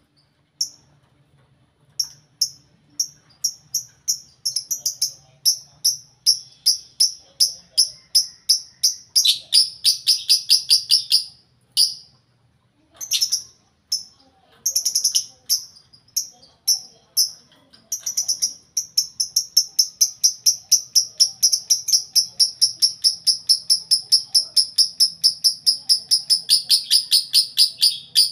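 Lovebirds giving shrill, rapidly repeated chirps: short runs broken by pauses at first, then, about two-thirds of the way in, one long unbroken series of fast chirps.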